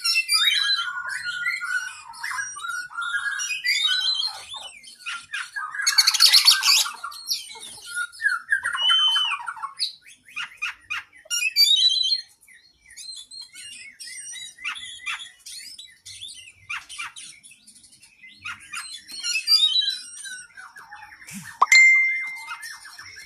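Oriental magpie-robin (kacer) singing a long, varied run of whistled, chattering and harsh phrases, with a loud harsh burst about six seconds in. A sharp click comes near the end.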